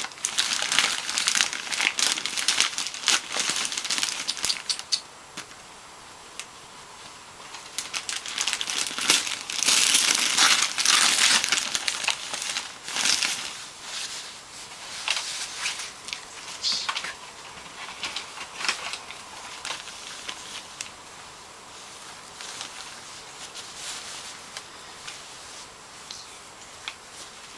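Wrapping paper crinkling and tearing in irregular bursts. The bursts are loudest about ten seconds in, then thin out to sparse rustles.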